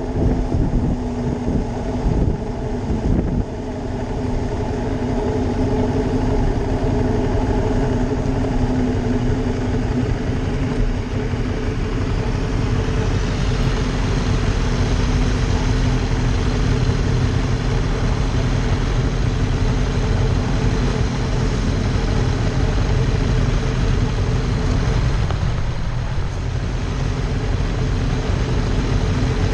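Ducati Monster 620's air-cooled L-twin engine running under way with a steady pitch; from about thirteen seconds in a broad rush of wind noise grows and mostly covers the engine note.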